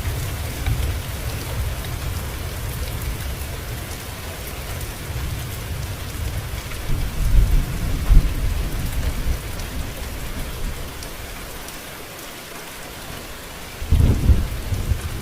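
Steady rain falling, with low rolling thunder rumbling underneath that swells about seven to eight seconds in and again near the end.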